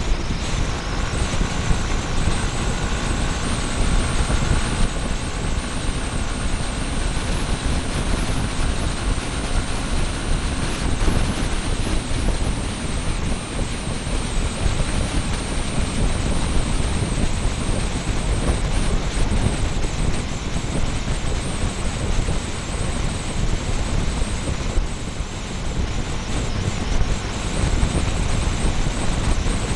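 Wind rush and rumble on the microphone of a mini camera mounted on a motorbike, with the motorbike and road noise underneath.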